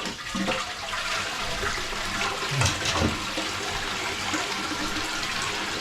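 Toilet flushing through a newly replaced flush valve: water rushing steadily into the bowl.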